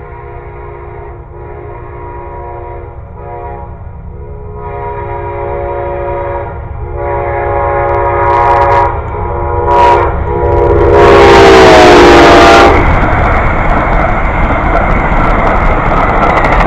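Approaching train's locomotive air horn, a chord of several notes, sounding in repeated blasts that build to long, long, short, long, the grade-crossing signal. The last long blast drops in pitch as the locomotive passes close with a loud rush, then the train's steady rumble continues.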